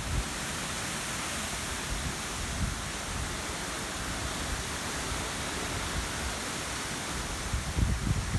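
Wind blowing through a cornfield: a steady rustling hiss of the leaves, with low wind buffeting on the microphone near the end.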